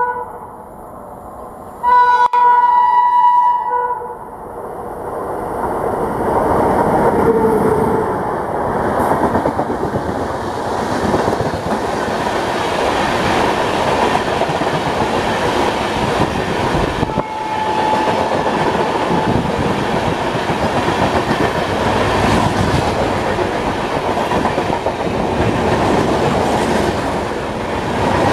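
Indian Railways electric locomotive sounds its horn once for about two seconds near the start, then the train runs through at speed, around 110 km/h, with its LHB coaches rushing past and their wheels clattering steadily over the rails.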